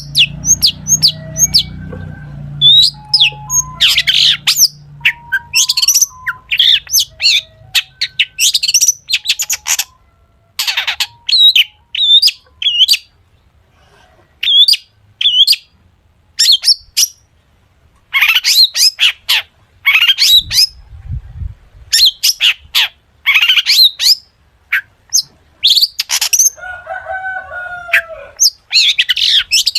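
Long-tailed shrike (cendet) singing in loud, rapid bursts of sharp chattering notes mixed with whistled phrases, the full-repertoire song full of mimicked calls of other birds.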